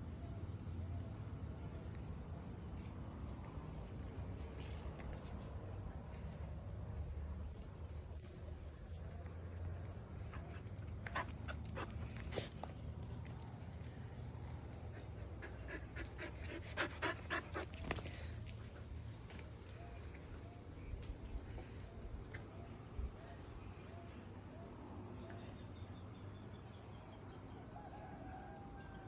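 Rural ambience: a steady, high-pitched insect drone throughout, with a dog barking in two short runs near the middle.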